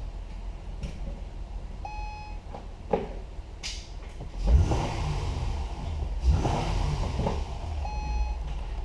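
Acura TL's 3.5-litre V6 running with a steady low hum. Two short electronic beeps sound about six seconds apart, and there is a louder rushing stretch in the middle.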